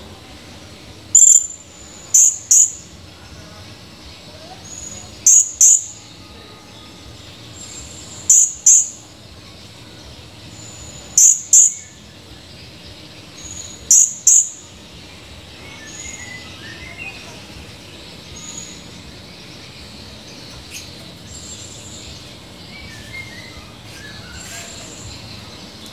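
Blue-crowned hanging parrot (serindit) calling: loud, sharp, very high-pitched notes in quick pairs, repeated about every three seconds. The calls stop about halfway through, leaving only faint chirps over a steady insect hum.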